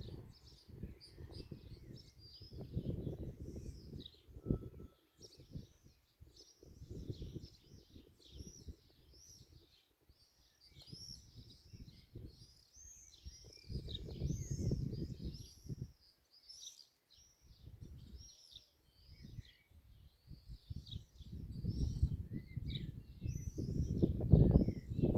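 A flock of small birds chirping, with many short, high arching calls overlapping without a break. Swells of low rumbling noise rise and fall underneath, strongest near the middle and toward the end.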